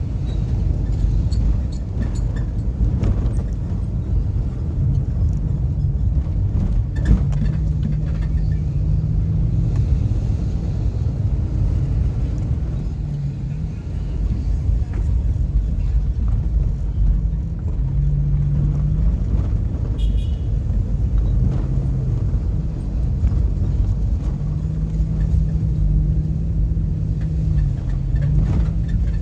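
A car's engine and low road rumble while driving, the engine note shifting in pitch now and then, with a few scattered knocks.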